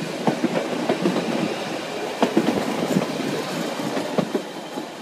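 CTA electric rapid-transit train rolling past the platform, its wheels clicking and clattering irregularly on the rails, getting quieter toward the end.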